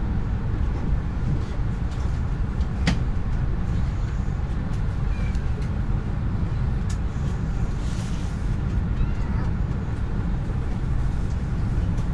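Lastochka electric train running at speed, a steady low rumble of wheels on rail heard from inside the passenger car, with a sharp click about three seconds in.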